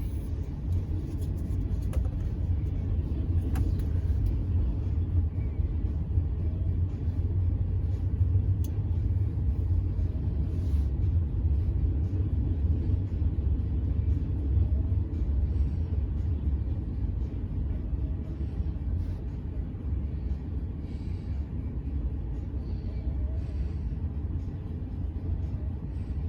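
Steady low vehicle rumble heard inside a car's cabin, even throughout.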